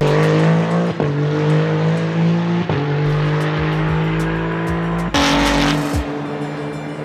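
A race car's engine runs at steady revs, its pitch breaking briefly about a second and two and a half seconds in, with a burst of rushing noise about five seconds in. Music with a drum beat plays underneath.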